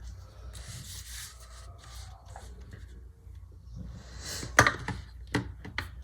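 Paper and stickers being handled on a desk: soft paper rustling, then a few sharp taps from about four and a half seconds in.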